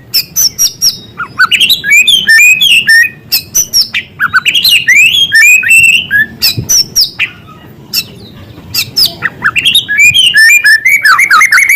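White-rumped shama (murai batu) singing a fast, varied song of gliding whistles, chirps and sharp clicking notes, worked through with mimicked small-bird calls. It pauses briefly past the middle and then resumes.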